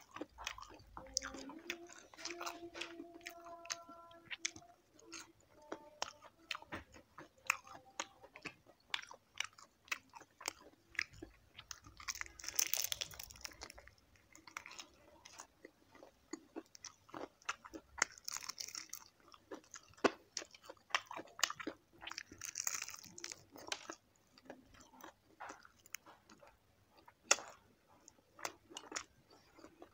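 Close-up eating of crispy fried chicken feet: a steady run of small crackling crunches and wet mouth clicks as the skin and bones are bitten and chewed, with a few louder crunching bursts around the middle and later.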